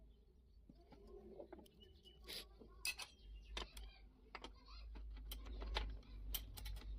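Scattered sharp clicks and taps of hand tools and engine parts being handled, more frequent after about two seconds, over a low steady hum.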